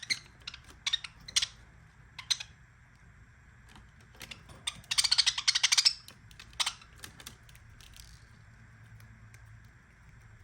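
Budgerigar sounds: scattered sharp clicks and ticks, and a rapid rattling burst lasting about a second and a half, starting about four and a half seconds in.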